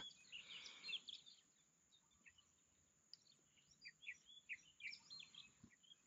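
Faint bird chirps: short, scattered calls, more of them in the second half, over near-silent background.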